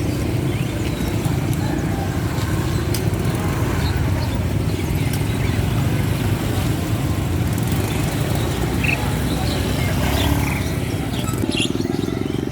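Steady low rumble of motor traffic, with a few short bird chirps in the later part.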